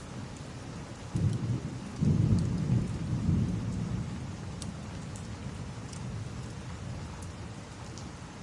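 Steady rain with a roll of thunder: a low rumble comes in about a second in, swells a second later and dies away over the next few seconds.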